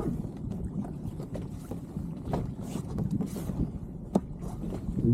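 Water lapping against an inflatable boat at anchor, with a steady low wash and scattered light knocks and clicks, the sharpest about two and a half seconds in, near four seconds, and near the end.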